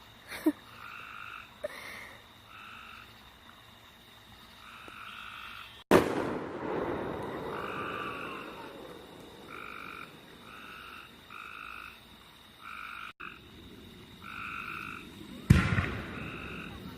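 Fireworks going off nearby: small pops early on, one loud bang about six seconds in followed by a long crackling, echoing tail, and another bang near the end. Throughout, frogs at a pond call in a steady series of short, evenly spaced croaks, over a faint steady trill of crickets.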